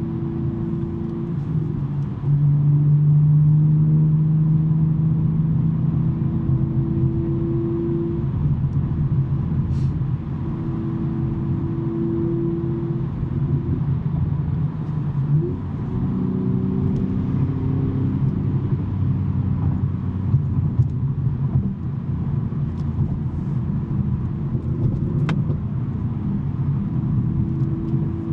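2023 BMW M3 G80's twin-turbo inline-six with a SuperSprint non-resonated J-pipe exhaust, running while driving on the road. The engine note gets louder about two seconds in and shifts in pitch several times as the throttle and speed change.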